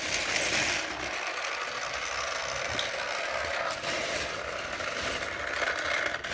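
Battery-powered toy train engine running along its track, its small motor and gears whirring steadily.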